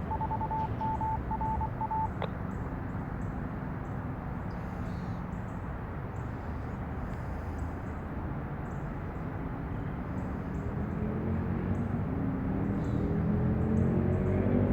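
Steady low rumble with a beeping tone pulsing through the first two seconds. From about ten seconds in an engine revs up, its pitch rising and getting louder toward the end.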